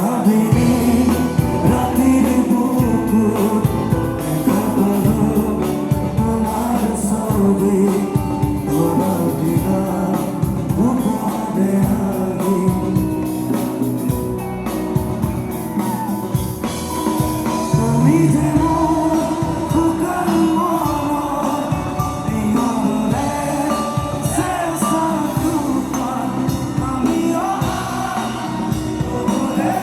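Live band music in a rock style, with singing; the full band comes in abruptly at the start.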